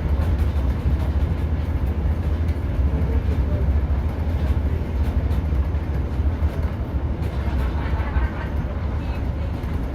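Cabin sound of a Class 150 diesel multiple unit under way: a steady low rumble from its underfloor diesel engines and wheels on the rails, with even running noise over it.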